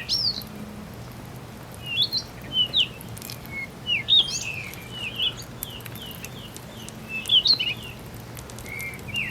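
Birds chirping: short, quick phrases that sweep up and down, coming in clusters every second or so, over a faint steady low hum.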